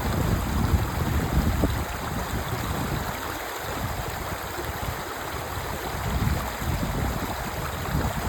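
Clear mountain streams flowing at their confluence: a steady rush of water with an uneven low rumble that swells and eases, dipping a little about three to five seconds in.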